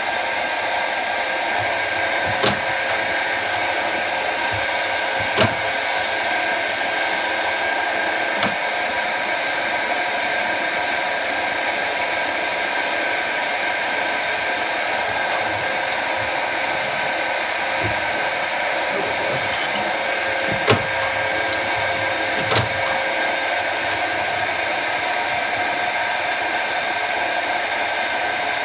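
Jet TL-25 lathe running steadily during machining: a constant whirring hum with a few fixed whining tones. Several sharp clicks come at irregular intervals, and the high hiss drops away about eight seconds in.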